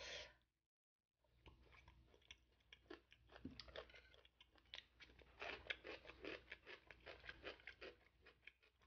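Quiet close-miked chewing of spicy boneless chicken feet: a steady run of small mouth clicks and smacks, starting about a second in after a brief cut-out of all sound.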